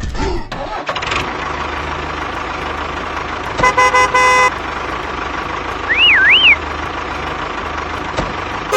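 A vehicle horn honks twice in quick succession about three and a half seconds in, over a steady traffic-like hum. A short warbling whistle comes near the middle, and the horn sounds again at the very end.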